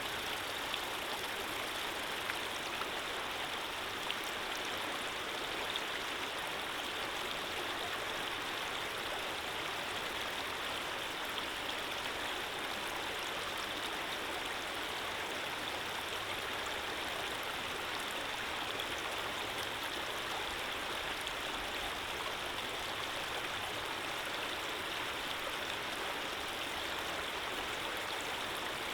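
Running water flowing in a steady, even rush, with a few faint ticks in the first few seconds.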